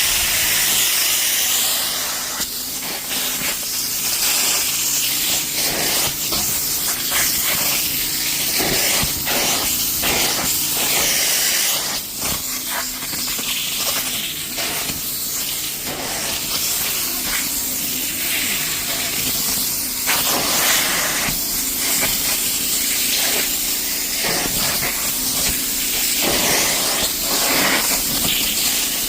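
Hot-water upholstery extraction machine running: a steady loud hiss of spray and suction through the hand tool over a low motor hum, with short scraping strokes as the tool is worked over the cushion fabric.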